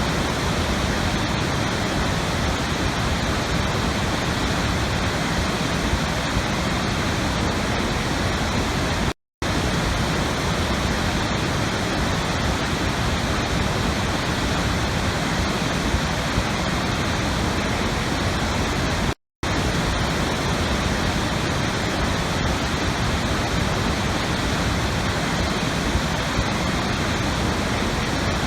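Steady, even rushing noise that does not change, like falling water, broken twice by brief cuts to silence about ten seconds apart.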